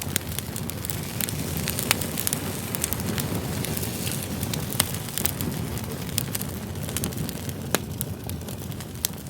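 Campfire of split firewood burning: a steady low rush of flame with frequent sharp crackles and pops from the logs, a few louder pops standing out.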